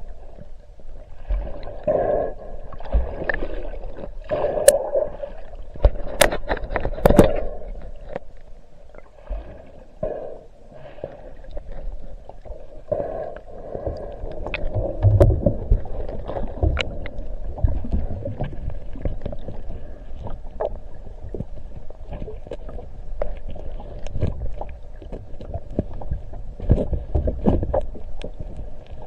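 Water and wind noise around a small boat, with irregular knocks and clicks; the loudest knocks come about six to seven seconds in.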